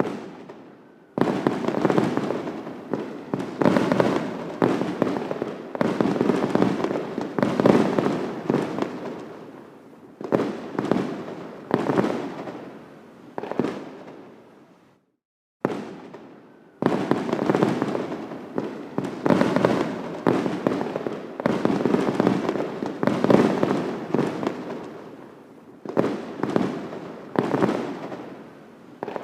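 Fireworks going off in rapid volleys: sharp bangs and dense crackling, each volley fading over a second or two, with a brief pause about halfway through.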